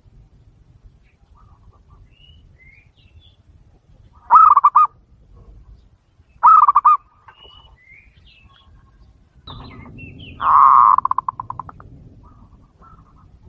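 Zebra dove (perkutut) cooing: three loud rolling calls, about four, six and a half and ten and a half seconds in, the last one longer and trailing off in a quick stutter of notes. Faint high chirps sound between the calls.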